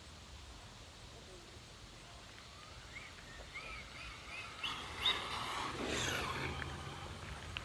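Radio-controlled car driving past. Its motor and tyres make a brief rush of noise that peaks about five seconds in, preceded by a few faint high chirps.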